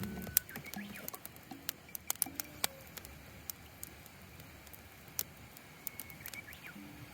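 Wood fire crackling, with irregular sharp pops and snaps from burning wood.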